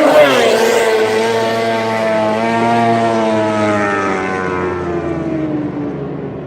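Racing motorcycle passing at full throttle, around 200 mph: its engine note drops sharply in pitch as it goes by at the start, then climbs slowly again as the bike keeps accelerating away, fading steadily.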